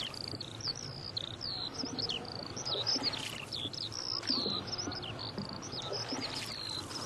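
Birds chirping and whistling, with many short high calls close together, several a second, a lot of them sliding down in pitch.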